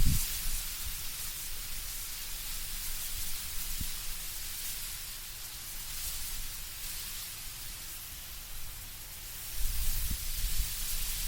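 Wind through autumn trees with leaves rustling in a steady hiss. A low gusting rumble rises near the end.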